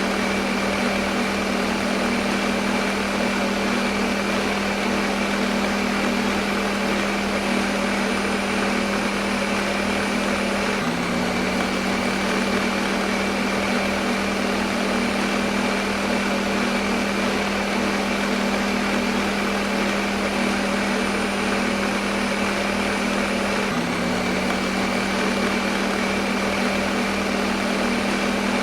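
Electric kitchen blender motor running steadily: a constant hum over a full hiss. Twice the hum hitches briefly and then carries on.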